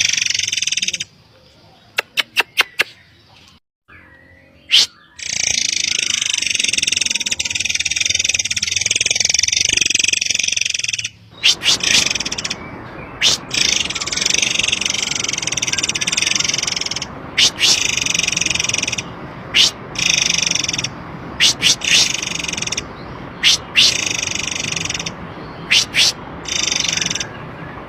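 Murai air song from a lure recording: long stretches of dense, high-pitched chattering broken by many short, sharp call notes. A steady low rushing noise joins in underneath about eleven seconds in.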